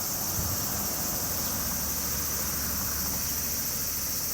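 Steady, shrill chorus of crickets and other insects singing on a summer evening, with a low rumble underneath that grows a little about halfway through.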